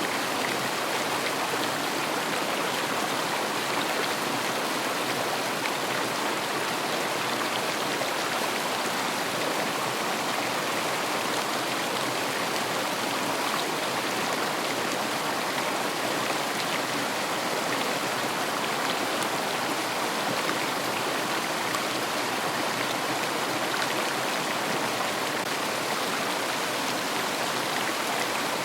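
River water flowing over stones, a steady rushing with no change in level.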